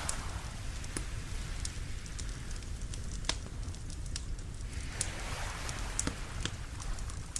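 Wood fire crackling with scattered sharp pops, one louder snap about three seconds in, over a soft wash of waves that swells twice.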